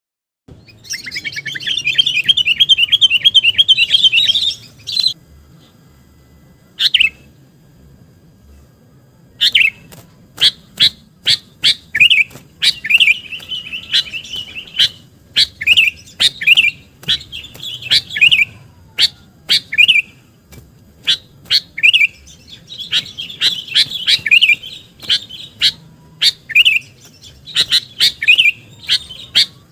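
Sooty-headed bulbul (kutilang) singing loudly: a rapid trill for a few seconds, then after a pause a long run of short, sharp call notes, one or two a second, broken by warbled phrases.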